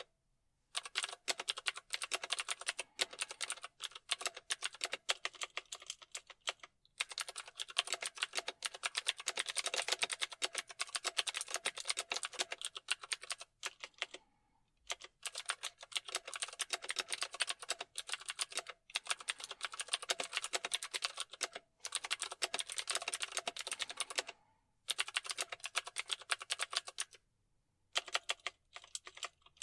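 Fast typing on a keyboard: a dense run of key clicks, stopping for short pauses of under a second several times before starting again.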